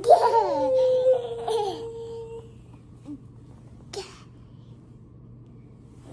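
A toddler's long vocal squeal: it starts high, slides down and holds one note for about two seconds, with a laughing, babbling quality. A short brushing noise follows about four seconds in.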